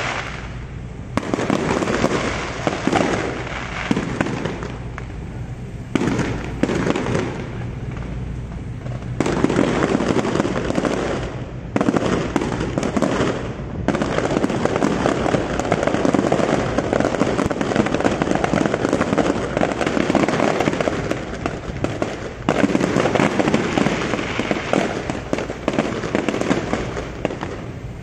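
Many aerial fireworks going off at once: a dense, continuous crackling of bursting shells and rockets. The loudness jumps up and down suddenly several times.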